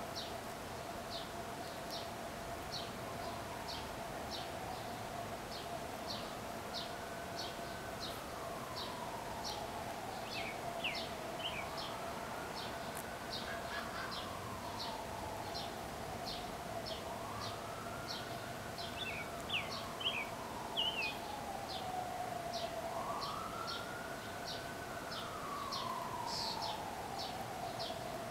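A bird chirping in a steady series of short high chirps, about two a second, with a few lower chirps now and then. A wailing siren rises and falls slowly every five or six seconds over a steady tone underneath.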